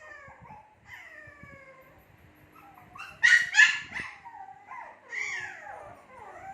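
Two-month-old Shih Tzu puppies whining and howling in falling cries, with two loud, sharp yaps a little over three seconds in.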